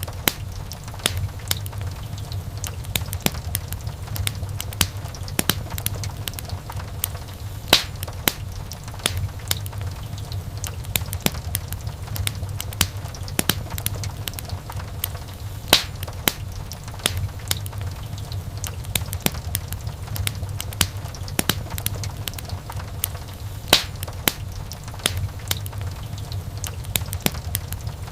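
Wood fire in a fireplace crackling, with frequent small pops and snaps and a few louder pops, over a steady low rumble.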